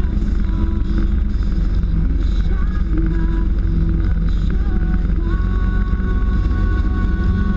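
Motorcycle engine running steadily at highway speed under a heavy low rumble of wind and road noise.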